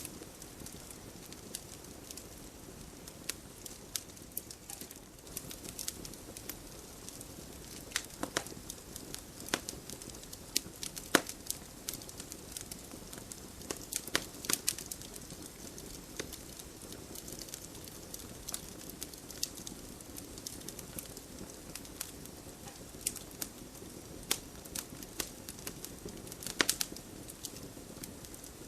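Wood campfire crackling: irregular sharp pops and snaps over a steady low rumble of the flames, with one louder pop about eleven seconds in.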